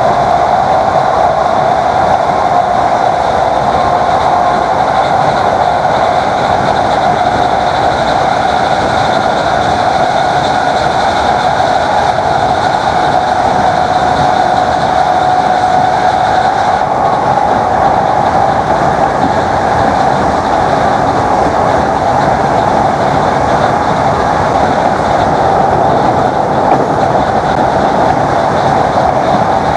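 Class 321 electric multiple unit running on the line, its traction motors giving a steady, loud whine over the rumble of the wheels on the track.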